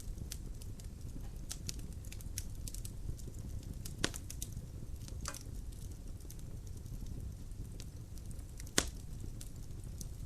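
Logs burning in a fireplace: a low steady rumble of the fire with scattered sharp crackles, and two louder pops about four seconds in and near the end.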